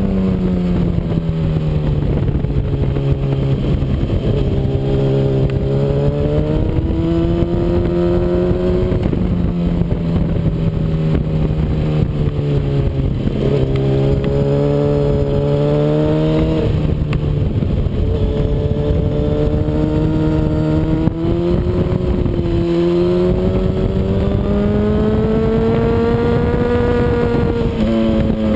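Honda CBR RR sportbike's inline-four engine at racing revs, its pitch climbing steadily through the gears and dropping sharply on the downshifts several times over, over a steady rush of wind noise.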